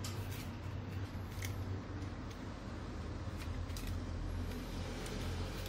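Scattered light clicks and rustling of small parts being handled and fitted, as the grinder's switch and wiring go back into the housing, over a steady low hum.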